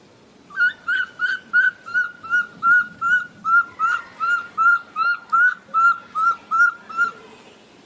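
A bird calling: a steady series of about eighteen short, identical whistled notes, nearly three a second, starting about half a second in and stopping near the end.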